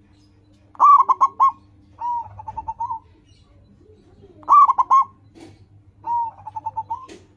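Local zebra dove (perkutut) singing its cooing song twice: each time a loud burst of about four ringing coos, then a softer, quick rolling run of coos. A brief click near the end.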